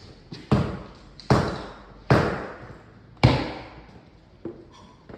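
Four heavy knocks on timber floorboards, roughly a second apart, each dying away over about half a second, then a lighter knock near the end: boards being struck into place as they are laid onto the glued slab.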